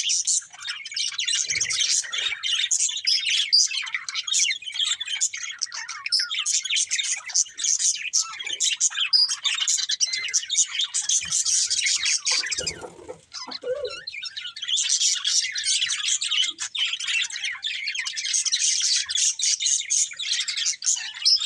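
Budgerigars chirping and chattering nonstop in quick, high twitters, easing off briefly about halfway through.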